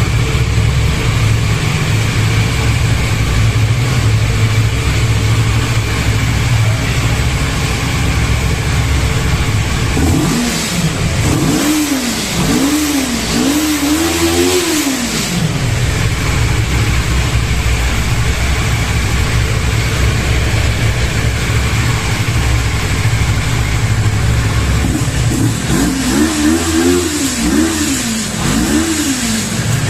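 CF Moto motorcycle engine idling through its exhaust, blipped in a quick run of about four revs about ten seconds in before settling back to idle, then revved again in several quick blips near the end.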